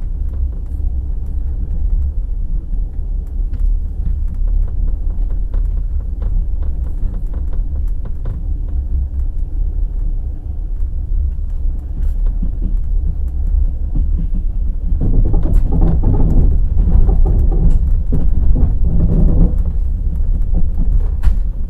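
Passenger express train running on rails: a steady low rumble of the wheels with scattered clicks, growing louder and fuller about three-quarters of the way through.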